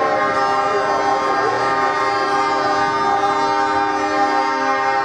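Several truck air horns blaring together in a continuous, loud chord of held tones, with trucks running underneath.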